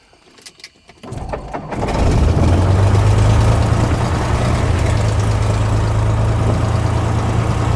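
Single-engine Cessna's piston engine being started: the starter cranks it unevenly for about half a second, a little over a second in, then it catches and settles into a steady idle with a strong low hum, at about 1,000 RPM.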